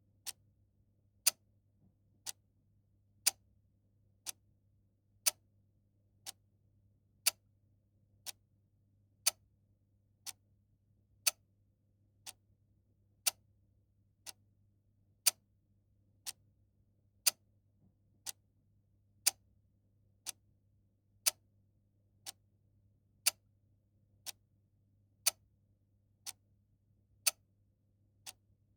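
Mechanical clock ticking steadily once a second, its ticks alternating louder and softer in an even tick-tock.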